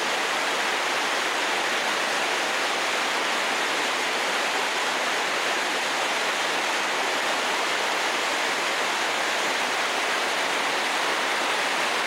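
Waterfall and brook water rushing at close range: a steady, unbroken roar of falling water.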